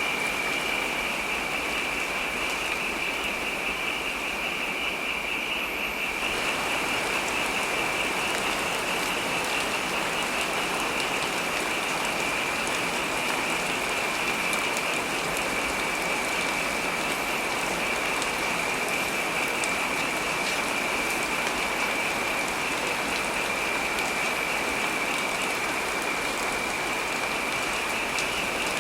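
Heavy rain falling steadily, a dense even hiss that grows fuller about six seconds in, with a steady high-pitched tone running through it.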